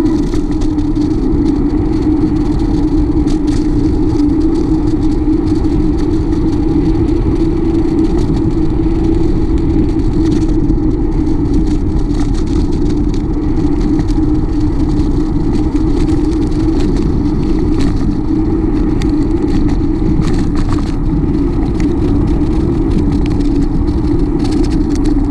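Steady, loud wind rumble on the microphone of a moving bicycle, with a constant hum underneath.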